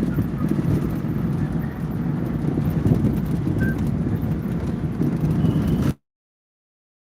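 Steady low rumble of road and engine noise inside a moving car. About six seconds in, the audio cuts out suddenly to dead silence.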